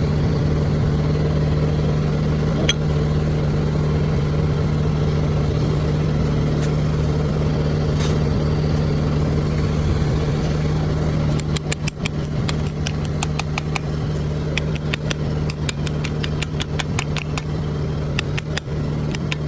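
Heavy machine's diesel engine idling steadily. About halfway through, a quick run of sharp clicks starts over the hum and goes on to the end.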